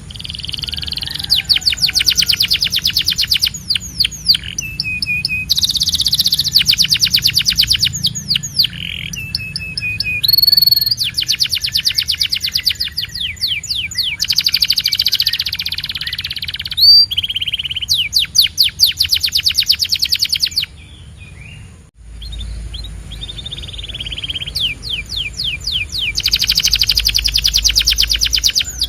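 Domestic canary singing: long rolling phrases of rapid repeated trill notes, interleaved with clear whistled notes and short chirps. The song breaks off abruptly about two-thirds of the way through, then picks up again.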